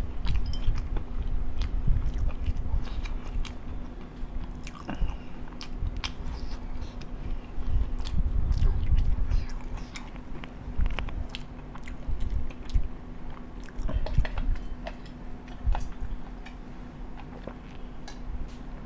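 A person chewing close to the microphone, with many small sharp mouth clicks; the chewing is heavier in the first half and lighter after. A faint steady hum runs underneath.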